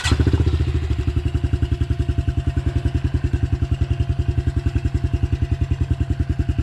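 Dirt bike engine catching right at the start, then idling steadily with a fast, even pulse.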